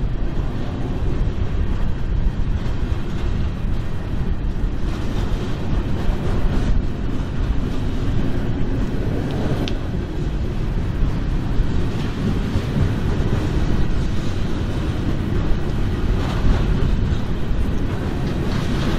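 Loaded coal train rolling past, a steady low rumble of the cars' wheels on the rails, with a brief high squeak about halfway through.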